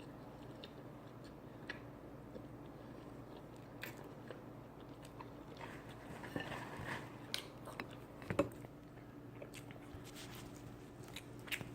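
A person chewing and biting food close to the microphone, with scattered small clicks and crunches; the eating gets busier and louder about six to eight seconds in.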